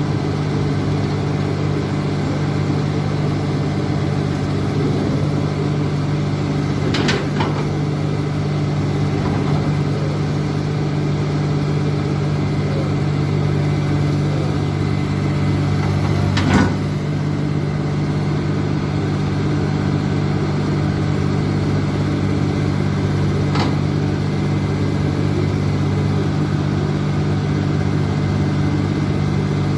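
Heavy diesel engine of the loading equipment running steadily at constant speed, with three sharp metallic knocks: about 7 seconds in, about 16 seconds in, and near the end.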